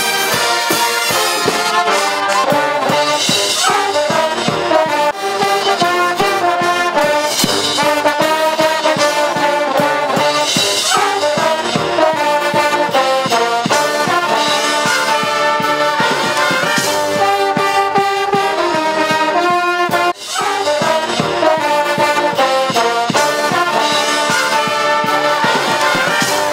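Brass-heavy music with trombones and trumpets playing a lively tune, with a brief break about twenty seconds in.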